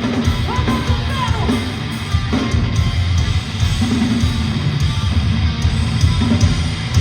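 Hardcore band playing live at full volume: distorted electric guitars, bass and drums in a dense, unbroken wall of sound.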